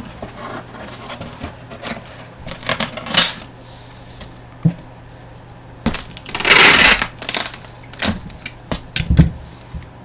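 Packaging being handled, crinkling and rustling, with scattered sharp clicks and a louder crinkling burst about six and a half seconds in.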